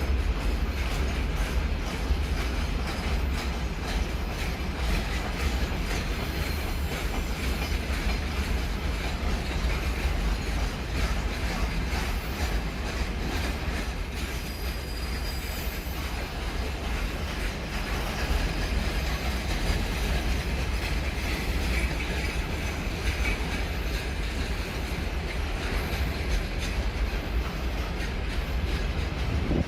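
A train running past on the rails for the whole stretch: a steady rumble with rapid wheel clatter over the track, and a faint squeal of wheels.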